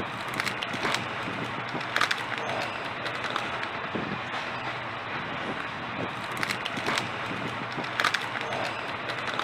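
Margalla Express passenger train running, heard from inside a coach at the window: a steady rumble and hiss with a few sharp irregular clicks and knocks.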